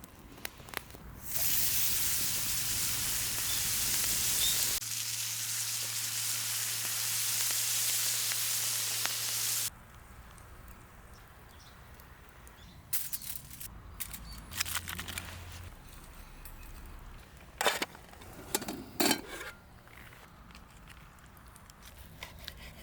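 Spare ribs sizzling over a campfire: a loud, steady hiss that starts about a second in and cuts off suddenly near the middle. The rest is quiet, with a few sharp clicks and knocks.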